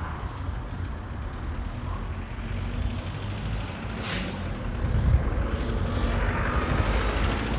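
Steady low rumble of idling heavy-vehicle traffic, with one short hiss of air about four seconds in from a truck or bus air brake releasing.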